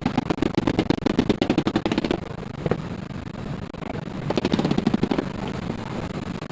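A fast mechanical rattle of sharp, evenly repeated clicks in two bursts: one about two seconds long at the start, and a shorter one of about a second past the middle.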